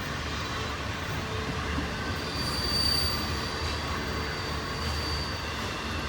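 Double-stack intermodal freight cars rolling past on steel rails with a steady rumble. A thin, high wheel squeal strengthens about two seconds in and fades near the end.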